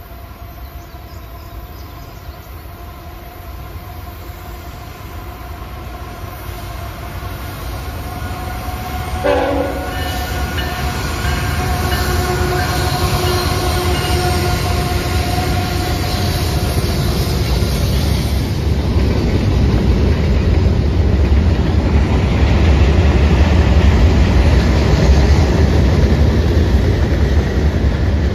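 Diesel freight locomotive sounding its multi-tone horn for several seconds as the train draws near, over a low engine rumble that grows louder. After the horn stops, the locomotive engines and rolling train are loudest as they pass.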